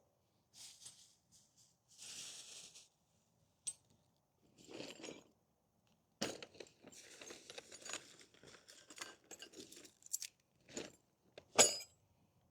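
Intermittent handling noises: brief scrapes and rustles, then a run of clinks and knocks, with a sharp knock near the end.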